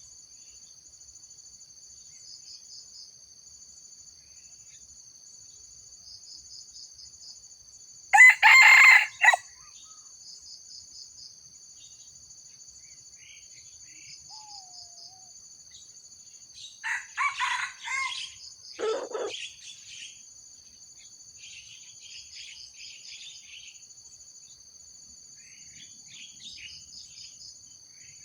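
Red junglefowl crowing: short, clipped crows, the loudest about 8 seconds in and more around 17 and 19 seconds. A steady high pulsing trill runs behind them.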